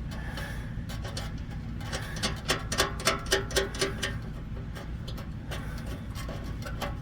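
A run of small metal clicks and clinks, several a second for about two seconds in the middle, from nuts being fitted by hand onto the bolts of an exhaust band clamp.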